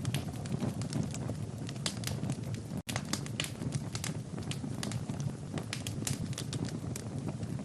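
Wood fire burning in a fireplace: irregular sharp crackles and pops over a steady low rumble of flame. The sound cuts out for an instant about three seconds in.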